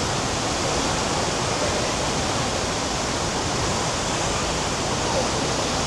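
A waterfall's water pouring down at high speed: a steady, loud rush of noise with no breaks.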